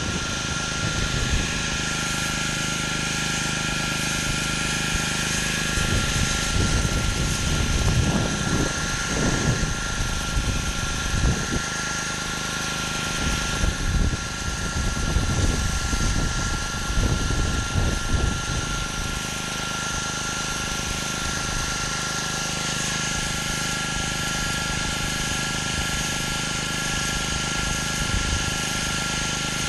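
Gas-engine pressure washer running steadily while spraying, with a constant whine and hiss and uneven low rumbles through the middle.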